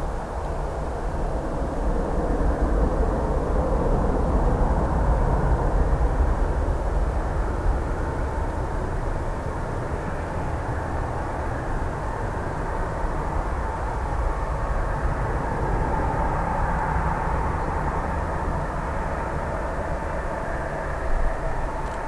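Jet engines of a Boeing 767-300 airliner running during its departure: a steady rumble that swells a couple of seconds in, then settles back to an even level.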